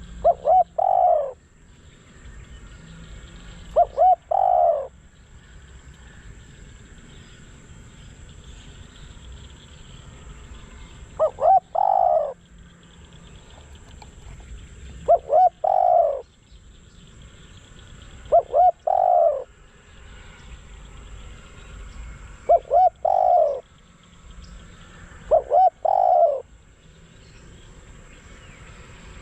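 Decoy spotted dove cooing: seven phrases, each two quick short notes followed by a longer coo, repeated at uneven gaps of about three to seven seconds.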